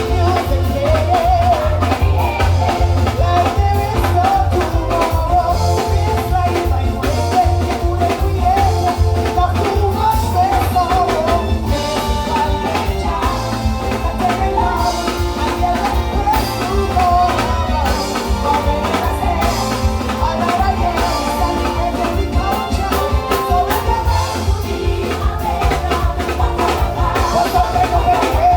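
Loud live soca music played through a PA: a heavy, steady bass and drum beat with a wavering melodic lead line over it.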